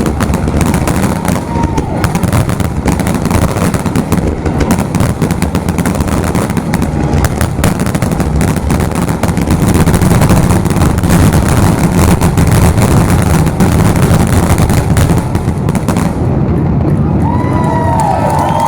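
A rapid, near-continuous barrage of fireworks bursts, with heavy booms and crackling overlapping one another: a finale-style volley. Near the end the crowd starts cheering and whistling.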